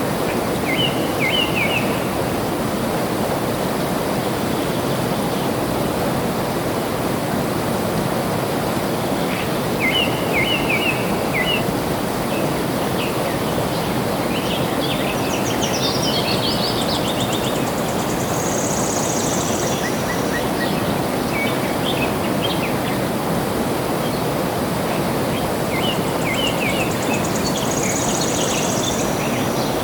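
Steady rush of flowing water, with a bird singing short chirping phrases over it every several seconds.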